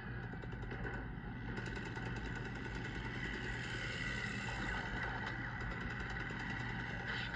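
Propeller aircraft engine droning steadily, with a rapid, even pulsing running through it from about a second and a half in.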